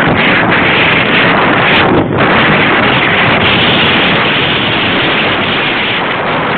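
Wind buffeting the microphone of a Looxcie 2 camera on a moving bicycle: a loud, steady rush of noise with a brief dip about two seconds in.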